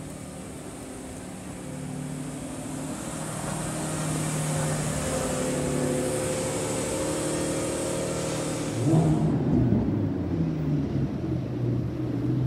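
Lamborghini Revuelto's V12 running steadily at low revs as the car moves off slowly, growing gradually louder. About nine seconds in it gives way abruptly to a Lamborghini Huracan Spyder's V10, louder and choppier, with the revs shifting.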